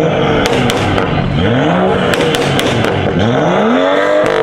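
Car engine being revved at a car meet: its pitch climbs and drops three times, with sharp cracks scattered through.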